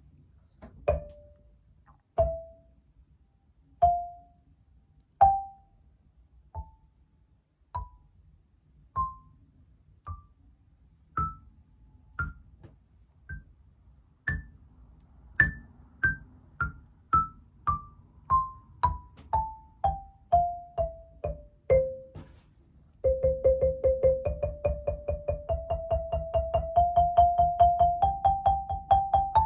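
Sonor Palisono SKX 100 soprano xylophone struck with mallets. Single short-ringing notes climb a scale and come back down a little faster, then rapid rolls on each note climb step by step for the last few seconds.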